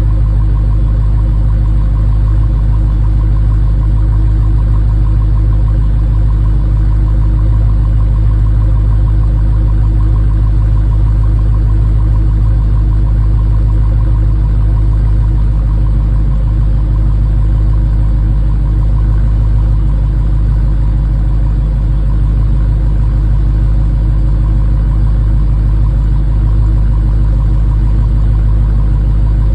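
2021 Dodge Challenger's engine idling steadily after a cold start, a low, even sound with no revs.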